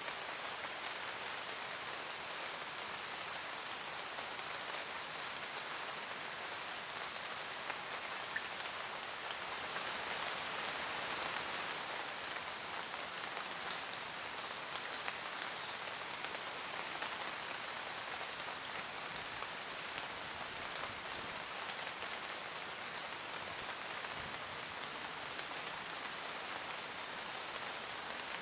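Steady rain falling in a forest, an even hiss of drops on leaves with scattered individual drip ticks; it swells slightly about ten seconds in.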